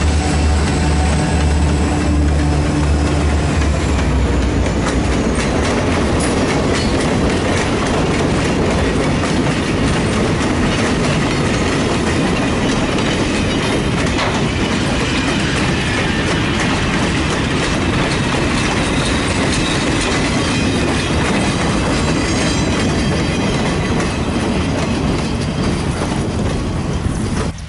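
Diesel freight train passing close by, led by Southern SD40 3170 with its 16-cylinder EMD engine. The locomotives' deep engine drone fills the first few seconds and then gives way to the steady clatter of freight-car wheels over the rail joints, with a faint high wheel squeal early on. The sound cuts off abruptly at the end.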